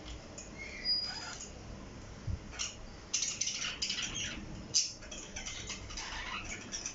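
Pet parrot making a brief high chirp about a second in, then a run of scratchy clicks and rustles.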